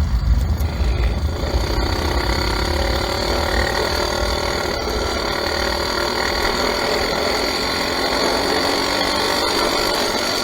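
Enduro motorcycle engine running steadily. A heavy low rumble in the first couple of seconds eases off, leaving an even engine note.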